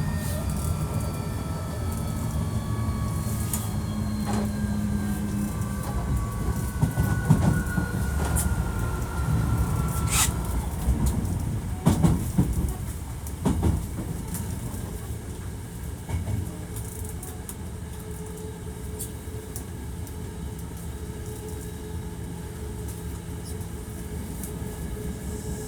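Hankyu 1300 series train, a unit with a Toyo IGBT VVVF inverter known for its unusual sound. The inverter whine slowly falls in pitch as the train brakes, with the wheels clicking over rail joints, then dies down to a quieter steady hum as the train slows for a station stop.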